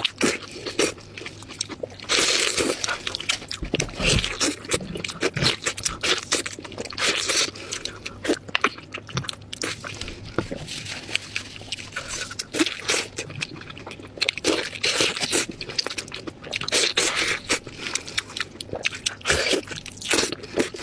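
Close-miked eating: repeated biting and crunching into crisp food, with wet chewing in between.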